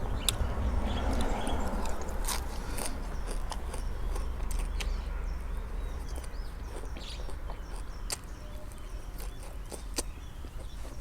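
Birds chirping now and then over a steady low rumble, with scattered sharp clicks and taps.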